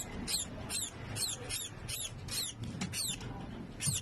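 A featherless nestling bird chirping over and over: short, high-pitched peeps that each slide down in pitch, about two to three a second.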